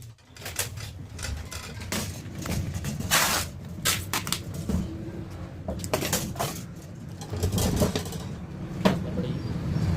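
Intermittent knocks, clatters and short scraping noises of hand work on a refrigerator, over a low steady hum.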